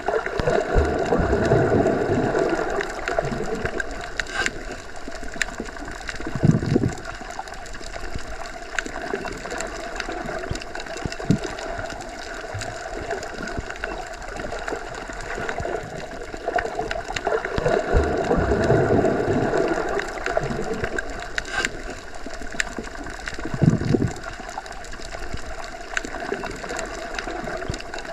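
Underwater ambience: a steady muffled rush and hum, dotted with faint clicks, swelling twice and with a low thud twice, the pattern repeating about every seventeen seconds.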